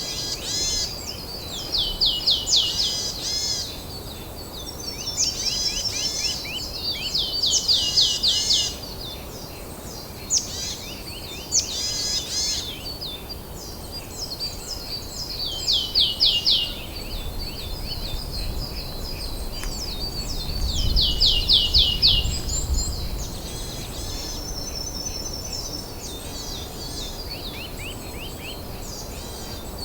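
Wild songbirds singing, with repeated phrases of quick down-slurred notes every few seconds, some overlapping, over a faint steady background. A short low rumble comes about two-thirds of the way through.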